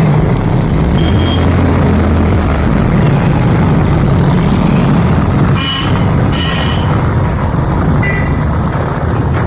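A steady motor or engine rumble, with a few short high toots about one, six and eight seconds in.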